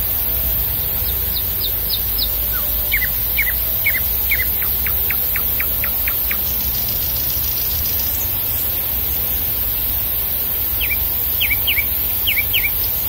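A small songbird calling in quick runs of short, falling chirps: several runs in the first half and another near the end. A steady low rumble runs underneath.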